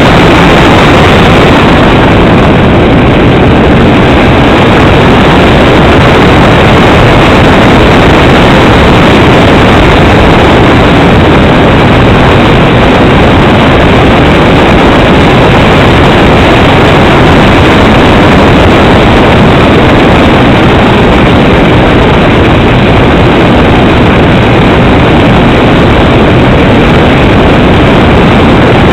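Cessna 310's twin piston engines and propellers running, a loud, even noise that holds steady with no change in pitch.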